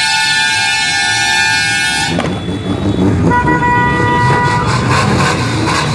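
Vehicle horns sounding: one long steady blast that cuts off about two seconds in, then a second blast at a different pitch lasting a little over a second, over a constant low rumble of engines and crowd.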